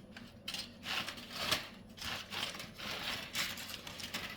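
Aluminium foil crinkling and rustling as it is peeled back off a resting piece of smoked beef, in several short scrunches.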